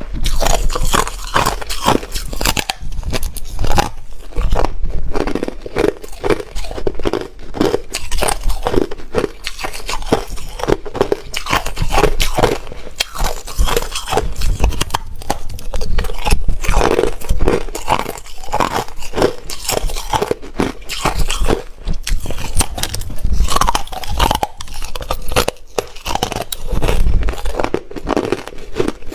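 Hard ice being bitten and chewed close to the microphone: dense, irregular crunching and cracking of ice between the teeth.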